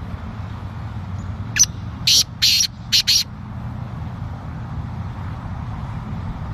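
Male black francolin giving its harsh, grating call once: a phrase of about five notes a second and a half long, one short note, two longer ones, then two quick ones. It sounds over a steady low rumble.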